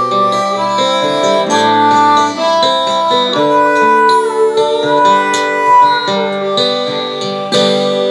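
Acoustic guitar and harmonica playing an instrumental passage, the harmonica holding long notes over the guitar.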